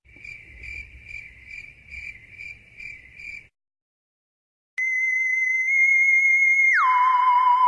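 Crickets chirping in an even pulse, about two or three chirps a second, stopping after about three and a half seconds. After a short silence a louder electronic tone starts, holds, then drops sharply to a lower pitch and holds there with a slight wobble.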